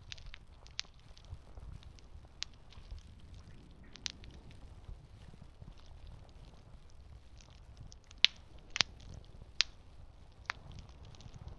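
Campfire crackling: irregular sharp pops and snaps of burning wood over a low steady rumble, with a few louder pops in a cluster near the end.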